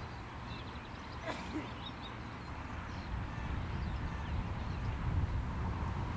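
Small birds chirping faintly over a steady low rumble that grows a little louder in the second half.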